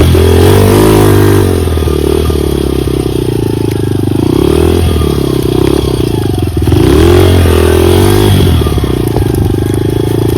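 Dirt bike engine running under throttle, its pitch rising and falling as the throttle is opened and eased off. It is loudest at the start and again about two-thirds through.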